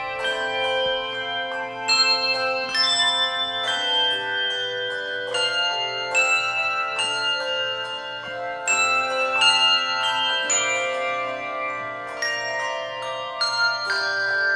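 Handbell choir playing a piece: several bells struck at a time, each ringing on for a second or more, with new chords every second or so.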